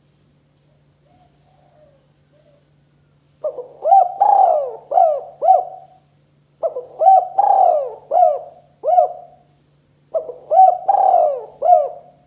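Spotted dove (tekukur) cooing: three phrases of several coos each, the first starting about three seconds in, with short gaps between phrases.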